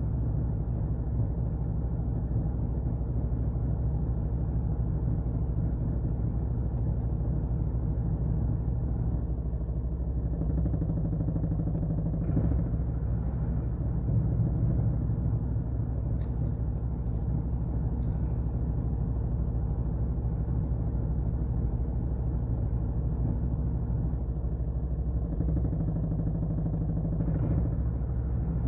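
Washing machine running: a steady low motor hum and drum rumble, changing in tone about a third of the way in and again near the end as the drum's motion shifts.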